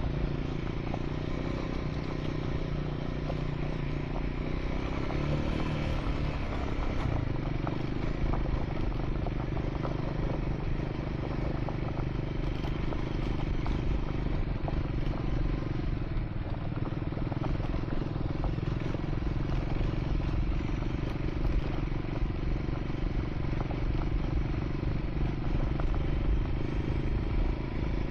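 Triumph Scrambler 400 X single-cylinder engine running under way on a gravel track, with loose stones clattering under the tyres. The engine note rises and then drops about seven seconds in, then holds steady.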